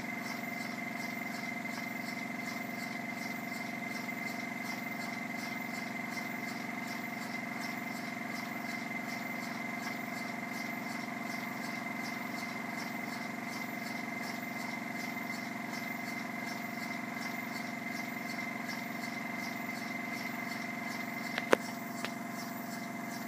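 Rebuilt Stuart model beam engine running steadily on about 20 psi, with a faint regular beat over a steady hum. A sharp click near the end.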